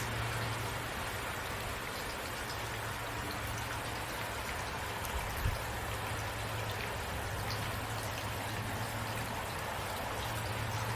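Steady rain falling, with a low steady hum underneath and a soft thump about halfway through.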